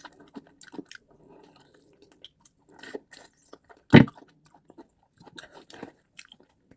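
Close-up chewing and mouth sounds of someone eating rice and stew, with scattered small clicks. One sharp knock about four seconds in is the loudest sound.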